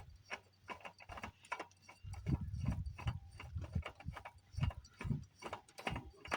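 Irregular clicks and knocks, a few a second, of tools and metal parts being handled.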